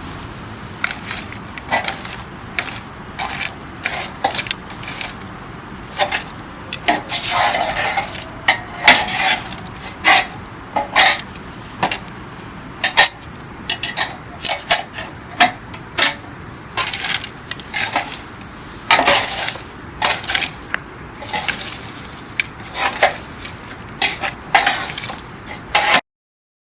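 Wood campfire crackling: frequent irregular sharp pops and snaps over a steady hiss. It cuts off suddenly near the end.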